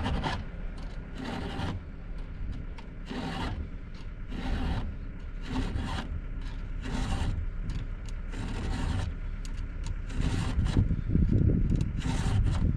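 A file being drawn across the cutting teeth of a Stihl MS261 chainsaw chain in repeated short scraping strokes, about one a second, sharpening a chain that is dull. A louder low rumble rises near the end.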